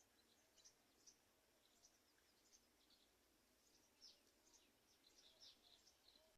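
Faint high-pitched bird chirps, many short calls scattered through, over a low background hiss.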